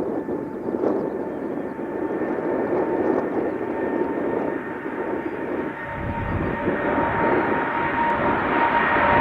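Boeing 777 freighter's twin GE90 jet engines at takeoff power on departure: a steady jet roar with a whine near 1 kHz, growing louder as the aircraft nears, with a deep rumble coming in about six seconds in.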